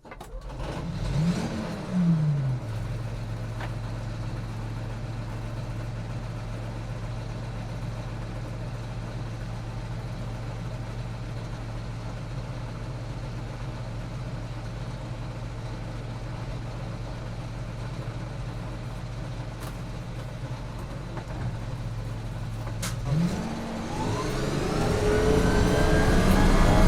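Armoured personnel carrier's engine starting up with a brief rev, then idling steadily. About 23 seconds in it revs up, its pitch rising and the sound growing louder toward the end.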